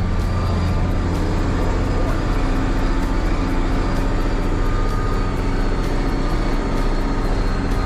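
Case 2670 tractor's diesel engine running steadily while pulling a disc chisel across the field: an even, low drone with a few steady tones above it.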